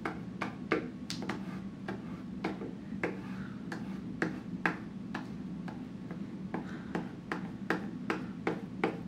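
Glue stick being worked over cardstock on a tabletop: a string of irregular sharp taps and clicks, two or three a second, over a low steady hum.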